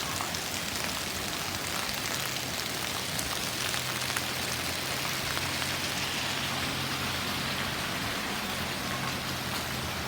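Steady rain falling, a dense even hiss with the ticks of single drops. A low steady hum joins beneath it about a second and a half in.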